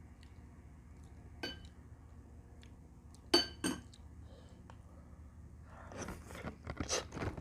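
Tableware clinking: a utensil strikes a dish three times, each a short ringing clink, the loudest about halfway through. Near the end, close-up eating sounds of chewing and mouth noises begin.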